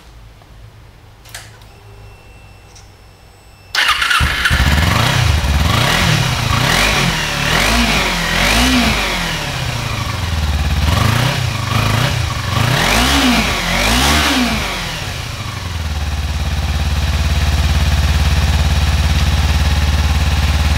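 Vehicle engine on its stock factory muffler starting up about four seconds in and revved up and down several times. It settles into a steady idle for the last few seconds.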